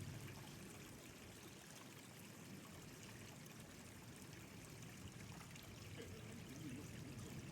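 Water running and splashing steadily, a faint, even trickle.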